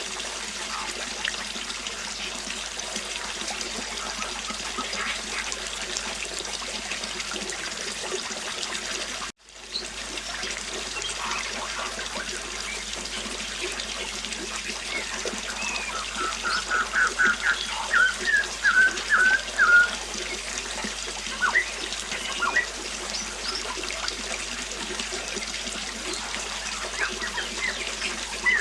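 River water flowing steadily with birds chirping over it. A little past halfway a bird gives a run of quick, loud calls for a few seconds. About nine seconds in the sound drops out for a moment.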